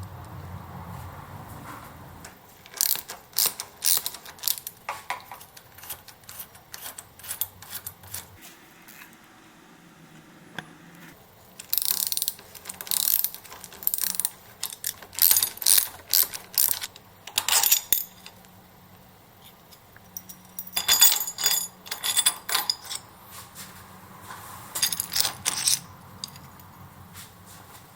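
Ratchet wrench clicking in short bursts of rapid strokes, again and again, as bolts are worked loose or run in on a motorcycle.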